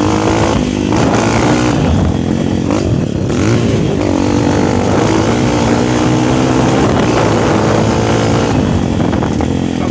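Motocross bike engine being ridden hard, its pitch rising and falling with the throttle and gear changes, holding fairly steady for several seconds in the middle before dropping near the end.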